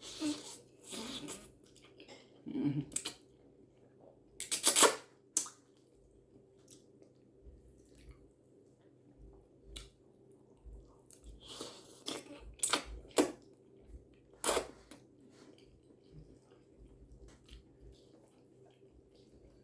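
Close-up eating sounds of a person working through a plate of spaghetti with shrimp: irregular wet chewing and mouth noises with sharp clicks, the loudest burst about five seconds in.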